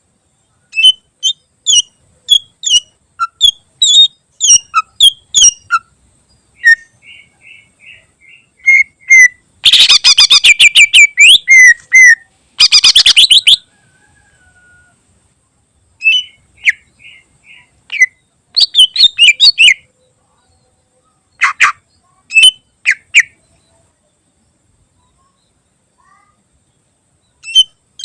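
Greater green leafbird (cucak ijo) singing: loud, sharp whistled notes in quick runs, with about four seconds of fast, harsh rattling trills near the middle. Its song is full of mimicked phrases of other birds (isian). There is a pause of a few seconds near the end.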